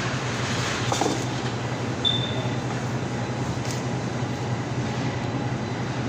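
Steady mechanical hum with a low drone under even rushing noise, a brief click about a second in and a short high beep about two seconds in.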